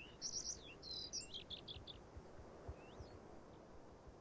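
European golden plover calling in alarm: a quick run of high chirping and whistled notes in the first two seconds, then a few single, short, sliding whistles.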